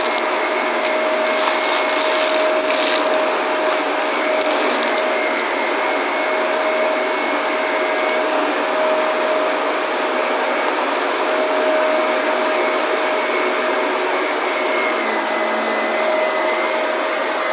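Shark vacuum cleaner running steadily with a constant motor whine. Through the first few seconds there are crunchy crackles of debris being sucked up.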